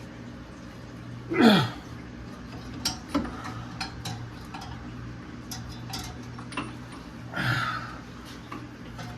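Wrench clicking and knocking on the crankshaft pulley bolt of a seized 1963 Thunderbird engine as it is worked back and forth, with a scatter of sharp metal clicks. Two louder sounds fall in pitch, about a second and a half in and again near the end, over a steady low hum.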